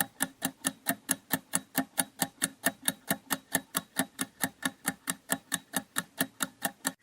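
Countdown-timer sound effect: clock-like ticking, evenly spaced at about four ticks a second.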